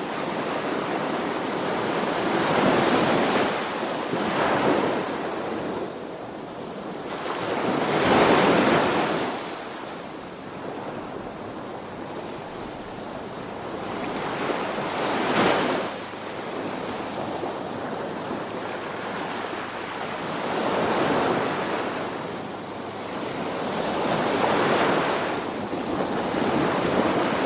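Sea waves breaking and washing ashore, swelling loud every few seconds, with wind buffeting the microphone.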